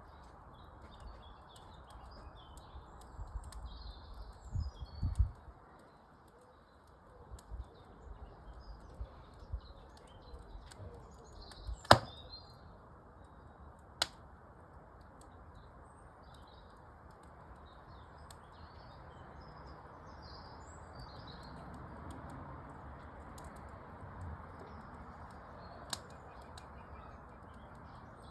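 Wood fire burning in a fireplace with a steady hiss and a few sharp pops, the loudest about twelve seconds in, while birds chirp in the background. A few low thumps come about four to five seconds in.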